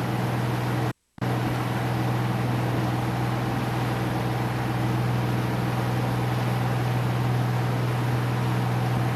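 A boat's engine running steadily, a constant low drone with a hum and a haze of noise above it. The sound cuts out completely for a moment about a second in, then carries on unchanged.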